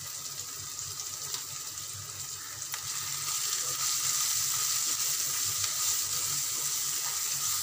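Chopped onion and tomato with coriander powder frying in oil and ghee in a pan, sizzling steadily while a spatula stirs and scrapes through them. The sizzle grows louder about halfway through.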